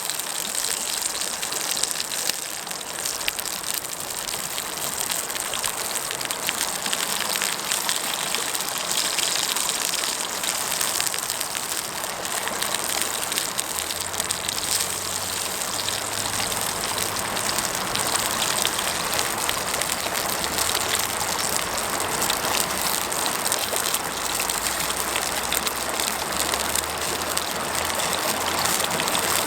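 Mountain stream rushing steadily, an unbroken wash of water noise.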